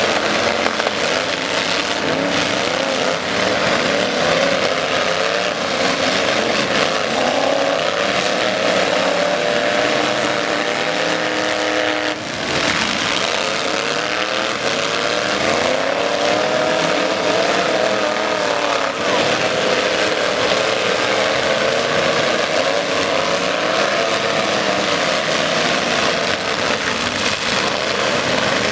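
Engines of several demolition-derby trucks revving at once, their pitches rising and falling over each other, with a brief drop in the noise about twelve seconds in.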